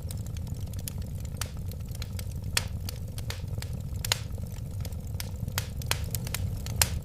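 Wood fire burning with a steady low rumble and irregular crackles and sharp pops, a few louder than the rest.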